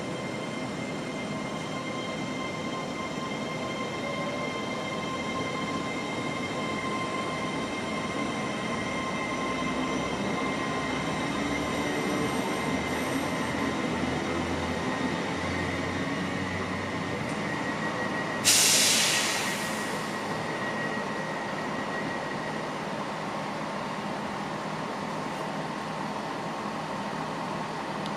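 A train running past, a steady rumble with a thin high whine or wheel squeal over it. About two-thirds of the way through comes a sudden loud burst of hiss that fades away over a second or two.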